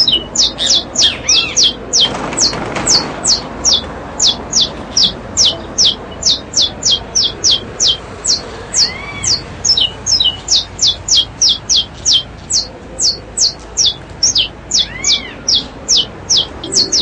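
Small caged birds chirping: a fast, even run of short high notes, each dropping sharply in pitch, about three a second, with an occasional lower arched call.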